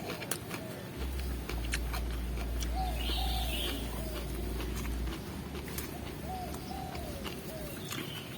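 A dove cooing in short repeated arched notes, over crisp clicks and crunches of someone chewing raw lettuce close to the microphone. A low rumble runs from about one to five seconds in.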